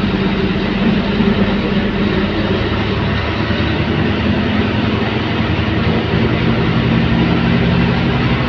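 Scania K280UB bus's five-cylinder diesel engine running under way, a steady drone that eases slightly about three seconds in and builds again in the last few seconds.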